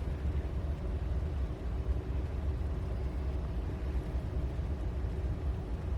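Vehicle engine idling: a steady low rumble with a faint hum above it.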